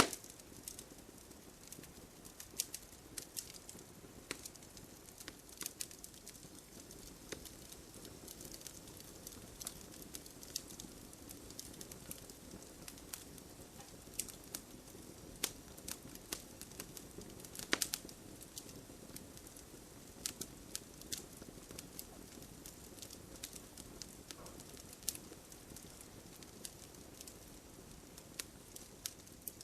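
Campfire crackling: irregular sharp pops and snaps over a soft steady hiss, with a louder pop about midway.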